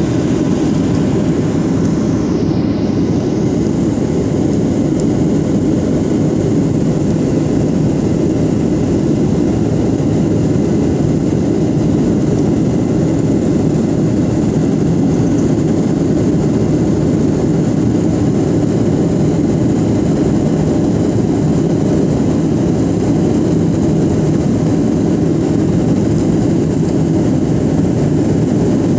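Steady drone of an airliner's engines and airflow heard from inside the passenger cabin on the approach to landing, unchanging throughout.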